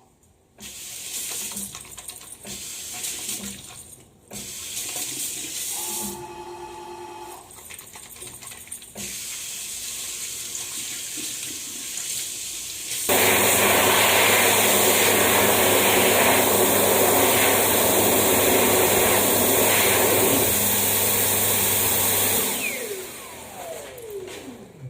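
Water running from a tap during hand washing, then an electric hand dryer starting about halfway through. The dryer blows loud and steady with a motor hum for about nine seconds, then winds down with a falling whine.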